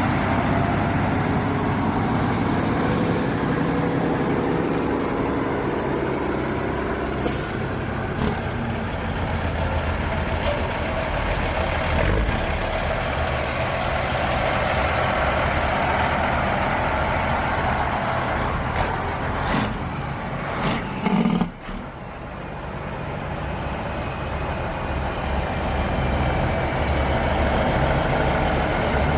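Big truck engine running steadily, with a few short, sharp hisses of compressed air.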